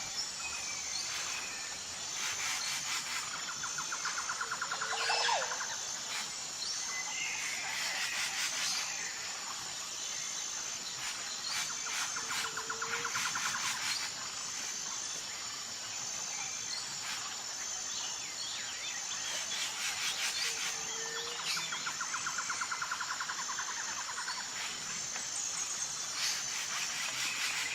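Natural ambience: a steady high insect trill of rapid, even pulses, with assorted bird chirps and calls over it and a short low call repeating about every eight seconds.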